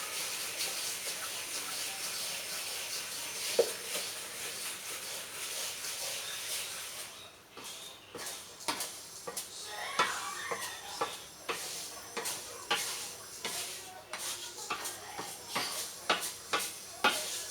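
Bird-feed ingredients dry-roasting in a pan: a steady hiss for the first several seconds, then a utensil scraping and clinking against the pan in repeated uneven strokes as the contents are stirred.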